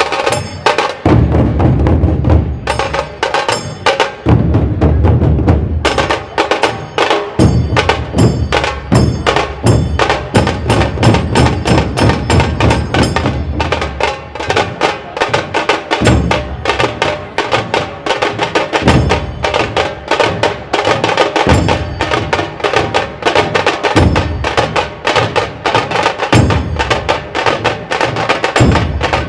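Dhol tasha ensemble playing: massed dhol barrel drums booming in repeated low blocks under a dense stream of rapid, sharp tasha strokes, in a fast driving rhythm.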